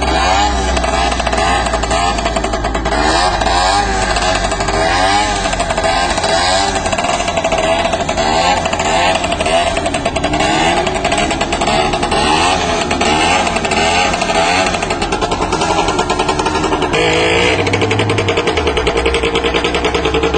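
Motorcycle engine revving up and down over and over, with music underneath.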